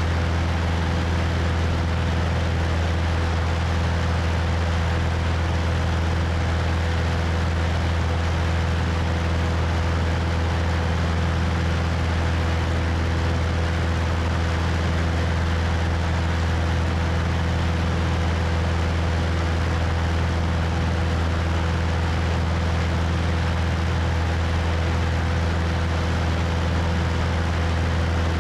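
Cessna 172's piston engine and propeller droning steadily in flight, with wind rushing over the wing-mounted microphone.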